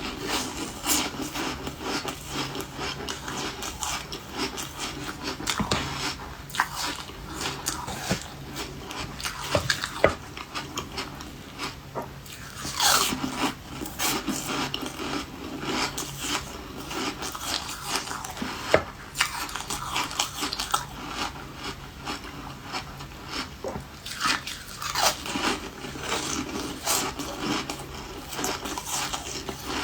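Refrozen ice being bitten and chewed: a steady run of irregular crunches and cracks, with a few sharper, louder cracks now and then.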